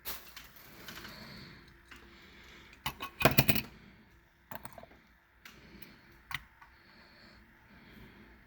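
Handling noise from a packaged 1/64 scale diecast toy car: scattered small plastic clicks and light rustling, with a louder clatter about three seconds in.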